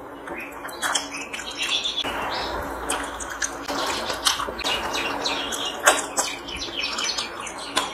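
Close-miked eating: chewing and wet smacking of mouthfuls of rice and chicken curry eaten by hand, with many short sharp mouth clicks.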